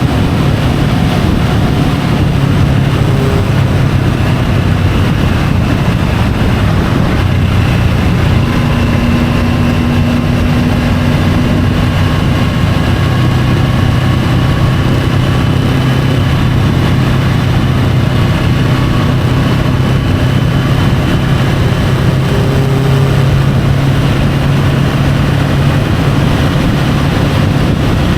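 Triumph Tiger 850 Sport's inline three-cylinder engine running at a steady cruise, its note holding a fairly even pitch under a constant rush of wind and road noise picked up by the bike-mounted camera.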